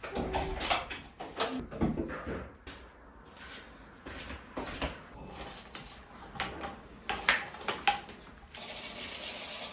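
Household objects being handled during cleaning: a string of light knocks, clicks and rubbing, with a steady hiss setting in near the end.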